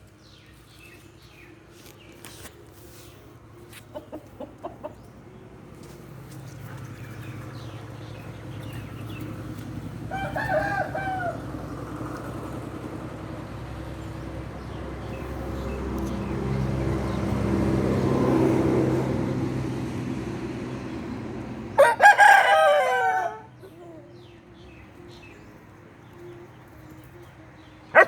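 Chicken calls: a short call about ten seconds in, then a loud, longer call falling in pitch a little past twenty seconds. A low rumble swells and fades in between, and a sharp click comes at the end.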